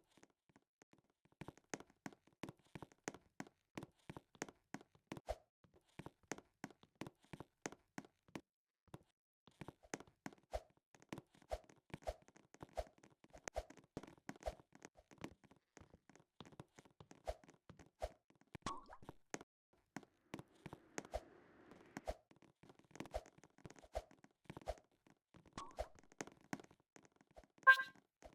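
Faint, irregular clicks and taps, several a second, with one louder, sharper click that rings briefly near the end.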